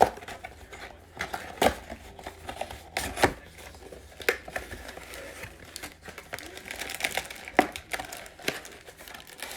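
Plastic wrapping on trading card boxes crinkling and tearing as they are opened, with several sharp knocks and clicks from the packaging being handled.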